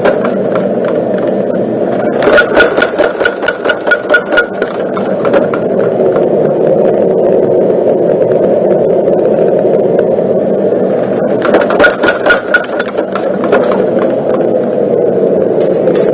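Homemade power forging hammer running with a steady motor drone, striking hot steel in two bursts of rapid, ringing blows: one about two seconds in and one about eleven seconds in.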